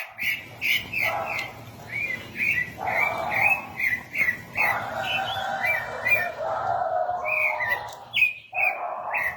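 A sabiá thrush singing: a steady run of short, clear whistled notes, many sliding up or down in pitch, repeated one after another, over a hiss of background noise that comes and goes.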